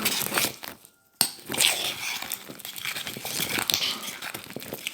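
Sticky slime being mixed and stretched by hand, a dense run of wet crackles and small pops as it pulls apart, with a brief break about a second in.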